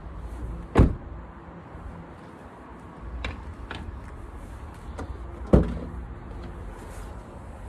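A car door shutting twice, two solid thumps nearly five seconds apart, with a few lighter clicks in between.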